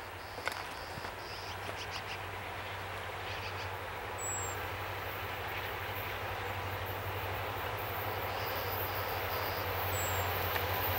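Canadian National diesel locomotives approaching with a freight train: a low, steady engine drone that grows slowly louder as the train nears.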